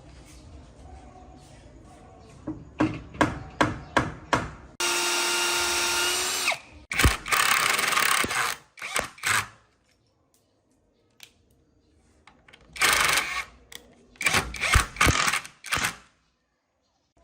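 Woodworking power drill running steadily for about two seconds, with a quick series of sharp knocks just before it. Later come bursts of harsher tool noise mixed with more knocks.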